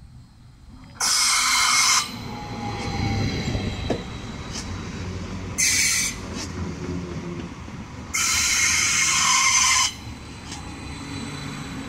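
Stadler FLIRT electric multiple unit arriving and rolling slowly past, its wheels rumbling on the track. Three loud shrill high-pitched sounds cut in and out abruptly over the rumble: about a second long near the start, a short one midway, and nearly two seconds near the end.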